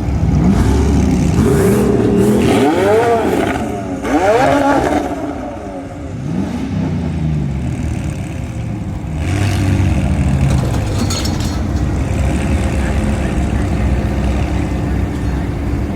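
A car engine being revved: about four rising and falling sweeps in pitch over the first seven seconds, then it runs more steadily.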